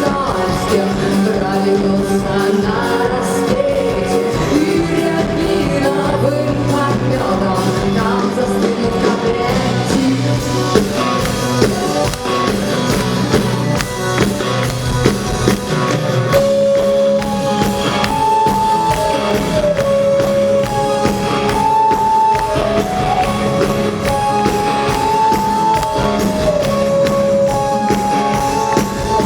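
Rock band playing live, with drums keeping a steady beat under a full band. About halfway through, a high melodic phrase starts and repeats over and over.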